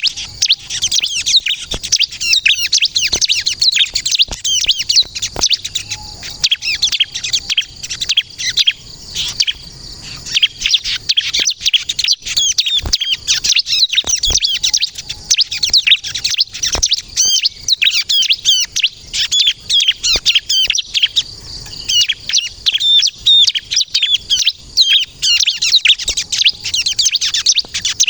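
Bar-winged prinia (ciblek kristal) singing fast, high, chattering chirps with hardly a pause, breaking off briefly twice.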